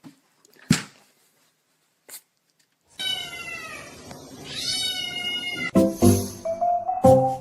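A cat gives one long, drawn-out meow of about three seconds, starting a few seconds in. Music with stepped notes follows near the end.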